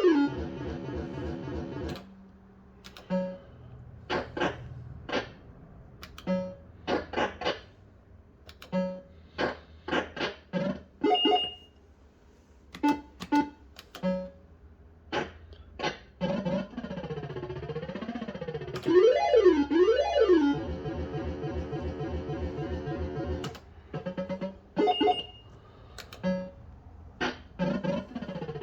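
Bell-Fruit Wild Cats fruit machine's electronic sound effects: a run of short separate bleeps, then, from about halfway, a continuous synthesized tune with rising-and-falling warbling sweeps.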